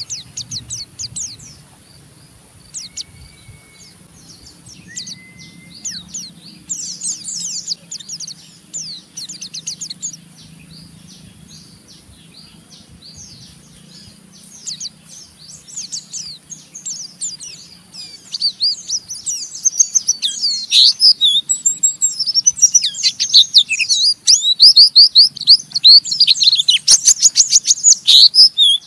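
White-eye (pleci) giving its rough, rapid chattering 'ngeriwik' call: scattered quick high chirps at first, building about two-thirds of the way in to a loud, dense stream of chirps. Two short level whistles sound early on, over a faint steady hum.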